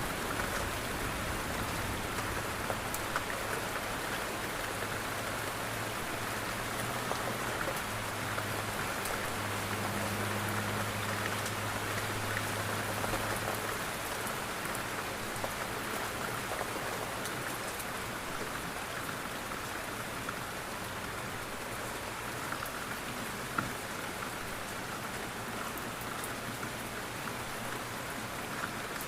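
Steady rain on a window: a dense, even hiss with scattered sharp drop ticks. A low rumble sits underneath for the first half and fades out about halfway through.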